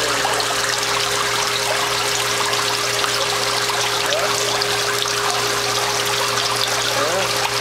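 Steady splashing of water falling through a cooling tower into its basin, like heavy rain, with a steady low hum underneath.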